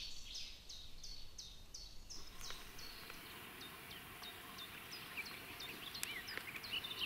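A songbird repeating a short, high chirp about three times a second, fading after a couple of seconds, with another bird's gliding calls near the end.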